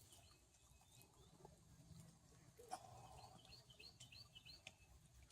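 Faint bird chirps: a quick run of short high notes in the second half, over near silence.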